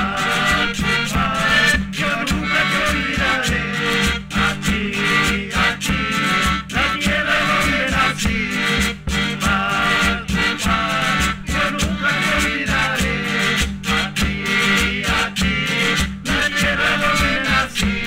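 Traditional Andean folk song from Cumbal played by a band, with a steady bass beat of about three pulses a second under a wavering melody.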